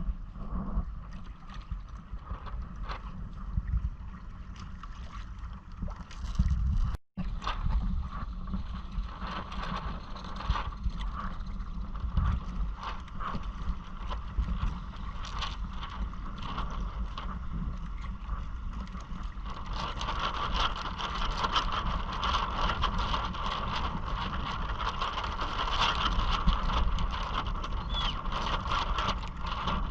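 Water splashing and rushing along the hull of a Hobie Island sailing kayak under way, with wind buffeting the microphone as a low rumble. The water noise grows louder about two-thirds of the way through, and the sound cuts out for a moment about seven seconds in.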